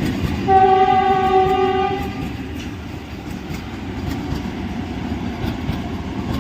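Vande Bharat Express train passing through a station, running noise and rail rumble throughout, with one steady horn blast of about a second and a half near the start.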